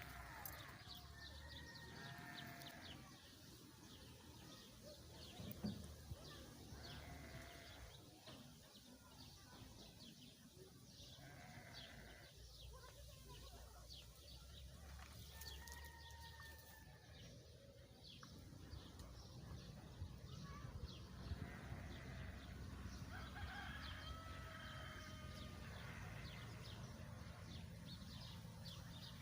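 Faint bleating of farm livestock, a few short calls spread through the stretch, with small bird chirps and a low outdoor rumble underneath.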